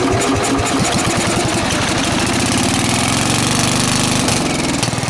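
Bolens 850 lawn tractor's 8¼-horsepower Wisconsin engine starting on choke. It fires unevenly at first, then catches about two seconds in and runs up to a steady speed. It is running on a spark plug just heated dry after fouling repeatedly with fuel.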